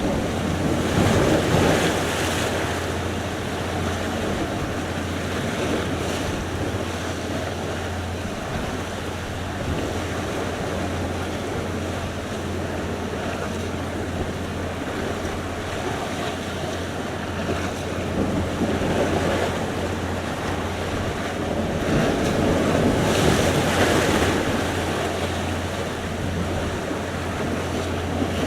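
Sea surf: waves rolling in and breaking continuously, swelling louder about a second in and again a little past the two-thirds mark, with wind rumbling on the microphone.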